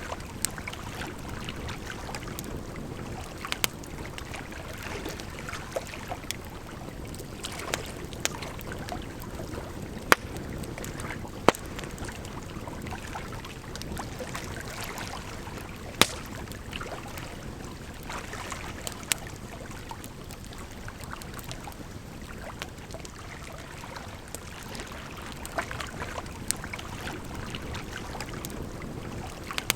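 Wood campfire crackling, with sharp irregular pops, a few much louder than the rest, over a steady rush of running water.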